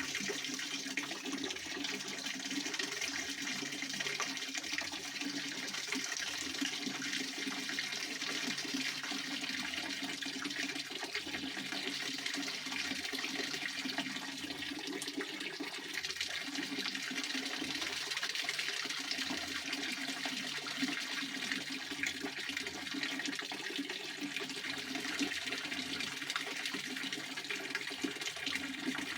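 Pond water fountain splashing steadily: falling water making a continuous, even sound with no breaks.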